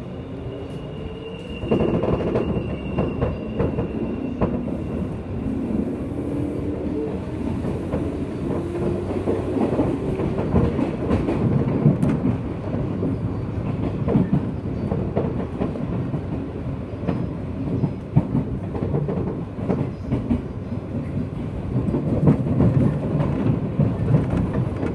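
JR West 201-series electric train running, heard from aboard a motor car: the traction motor hum rises steadily in pitch over the first several seconds as the train picks up speed. After that come wheel-on-rail running noise and clattering over rail joints.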